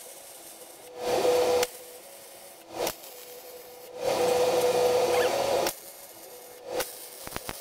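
Wire-feed (MIG) welder arc crackling in separate bursts. There is a short weld about a second in, a quick tack near three seconds, a longer bead of under two seconds in the middle and another short tack near the end, with a low steady hiss between them. These are short stitch welds placed in different spots on the steel table top to avoid warping it.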